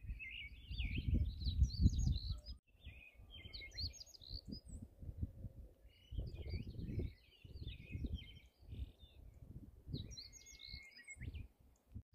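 A small songbird singing in quick twittering phrases, four bursts of song with short pauses between, over a low rumble.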